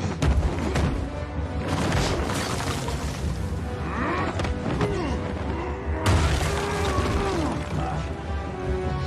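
Action-film soundtrack: driving score music under heavy booms and crashing impacts, the loudest about six seconds in.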